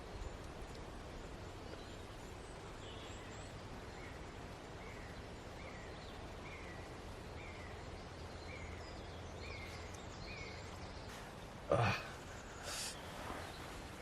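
A bird calling in the woods, a run of about ten short falling notes, one every half second or so, over steady outdoor background noise. A sudden short loud noise comes near the end.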